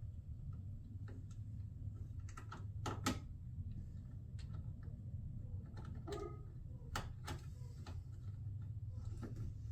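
Scattered light clicks and knocks of a bolt and washer being fitted and tightened on a plastic radiator shroud, at an irregular pace, over a low steady hum.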